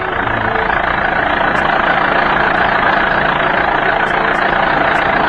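A loud, steady engine drone, building a little over the first two seconds and then holding even.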